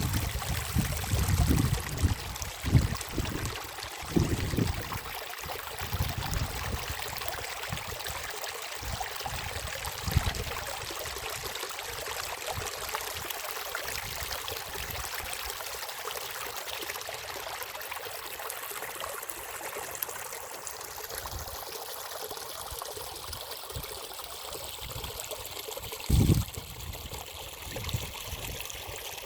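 Running water of a small stream, a steady trickling rush. A few low bumps break in during the first five seconds, and again once near the end.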